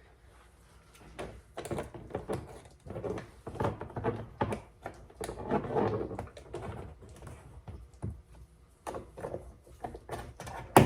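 Plastic cover on a 2012 Fiat 500's inside door panel being pried off with a tool: irregular scraping and clicking of plastic trim, with a sharp click near the end.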